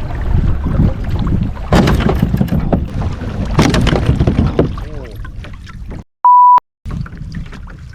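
Knocking and rustling on a pedal kayak with wind on the microphone, with louder knocks about two and three and a half seconds in. About six seconds in the sound cuts out and a single high, steady beep plays: a censor bleep over a sworn word.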